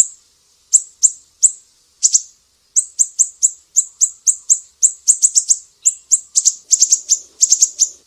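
Siri-siri songbird giving sharp, very high, piercing chips, each a quick downward sweep. They come singly or in pairs at first, then quicken into closer runs of several chips from about halfway, and stop abruptly at the end.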